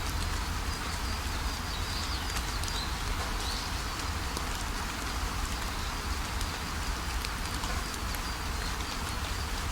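Waterfall rushing steadily, with birds chirping now and then at a high pitch.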